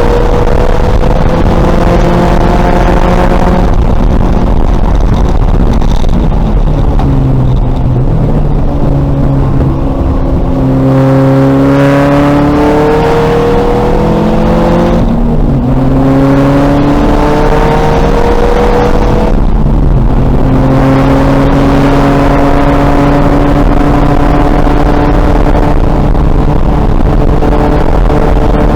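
2000 VW Golf race car's engine pulling hard, its note climbing in pitch under acceleration and dropping back about four times, over constant road and wind noise.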